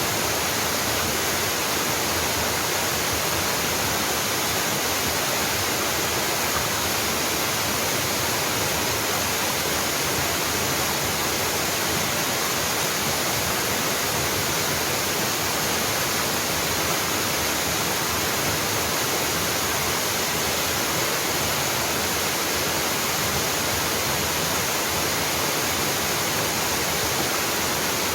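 Waterfall pouring steadily: an unbroken, even rush of falling water with no pauses or changes.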